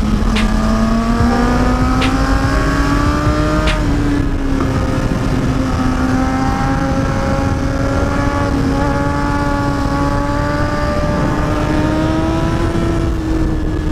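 Kawasaki ZX-10R's inline-four engine pulling under way, its pitch climbing over the first four seconds with three sharp clicks along the way, then holding a fairly steady note. Heavy wind rumble on the microphone throughout.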